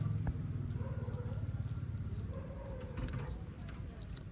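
An animal's drawn-out wavering calls over a steady low hum.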